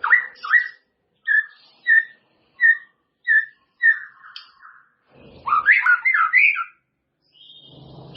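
White-rumped shama (murai batu) singing: a series of short, evenly spaced whistled notes, then a fast, varied warbling phrase.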